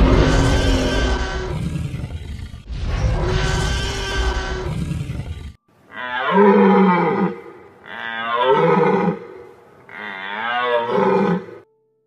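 Dinosaur roar sound effect: two long, loud roars. About six seconds in come three deer calls, each a drawn-out cry with a wavering pitch.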